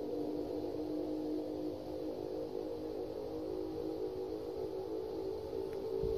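A steady droning hum made of several low tones held together, the kind of sound recorded and shared as 'strange sounds in the sky'.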